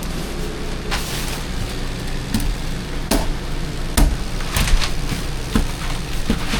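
Steady low mechanical hum, with scattered knocks and clatters of things being handled and set down, about eight in all.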